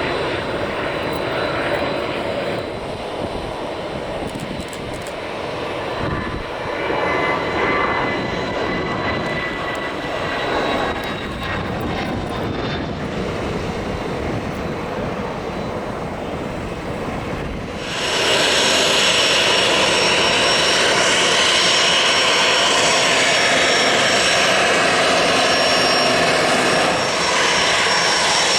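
Business jet engines running with a steady rush. About two-thirds of the way through, the sound jumps abruptly to a louder, fuller whine with a thin high steady tone.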